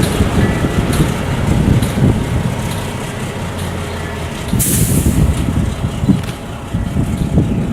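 LIRR diesel locomotive 161 running light, its engine rumbling steadily. A short hiss comes about four and a half seconds in.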